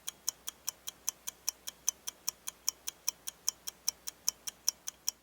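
Fast, even clock-like ticking, about five ticks a second, with near silence between the ticks. It sounds like a ticking-clock sound effect laid over a time-skip.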